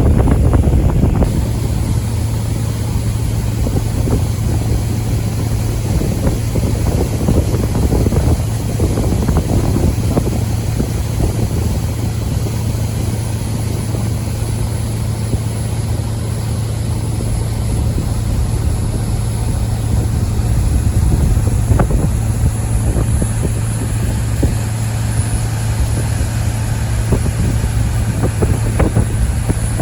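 Tour boat's engine running steadily under way, a constant low hum.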